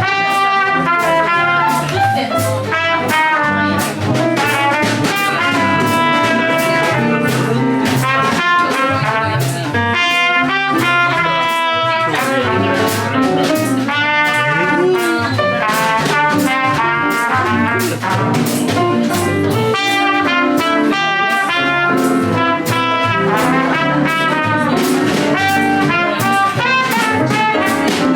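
Live jazz band playing, a horn carrying a melodic line over the rhythm section.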